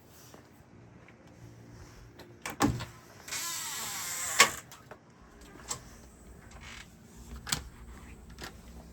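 A door being opened: a clunk, about a second of sliding hiss, then a sharp click, followed by a few lighter clicks and taps.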